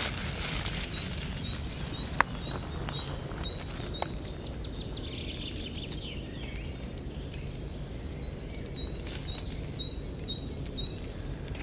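A small songbird singing a quick run of high, repeated two-note chirps, stopping about four seconds in and starting again near the end, over a steady low outdoor rumble. A single sharp click sounds about two seconds in.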